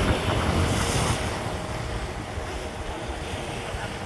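Wind rumbling on the microphone over a steady wash of water, fading slightly, with a faint steady hum underneath.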